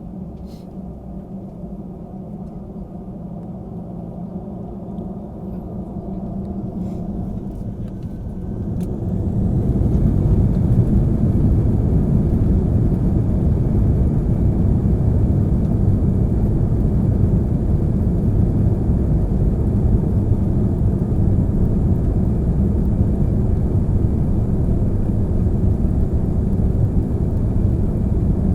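Airbus A319's CFM56 jet engines spooling up for takeoff, heard from inside the cabin: a steady hum growing slowly louder, then about nine seconds in a jump to full takeoff thrust, a loud, even roar with rumble as the plane rolls down the runway.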